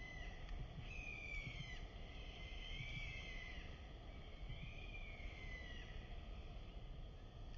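A bird calling three times with drawn-out, whistled notes that arch and fall at the end, over a steady low outdoor rumble.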